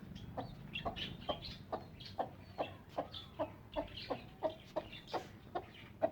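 Broody hen clucking in a steady, even series of short clucks, about two to three a second.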